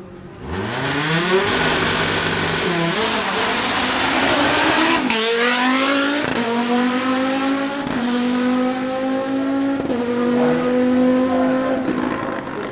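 Hillclimb race car accelerating hard, its engine revving up and shifting up through the gears several times, with the pitch climbing and dropping back at each change.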